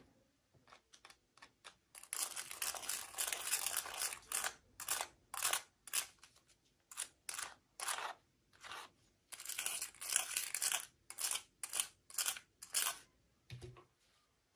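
Toy packaging being torn open and crinkled by hand: a dense stretch of rustling, then short separate crinkles about once a second, with a soft knock near the end.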